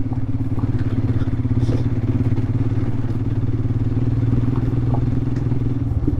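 Royal Enfield Himalayan's 411 cc single-cylinder engine running at a steady, even speed under way.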